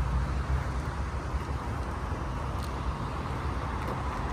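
Steady outdoor background noise: a low rumble with an even hiss over it, easing slightly after the first second.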